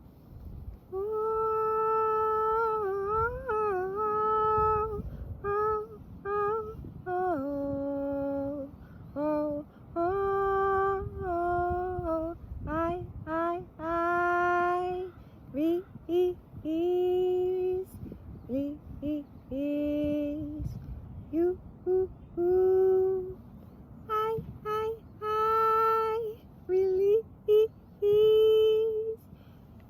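A woman's voice singing wordless light-language syllables: short held notes with slides up and down in pitch, broken by brief pauses.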